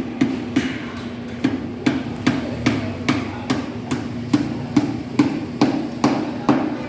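Hammer striking repeatedly in a steady rhythm, about two to three blows a second, each blow sharp and ringing briefly.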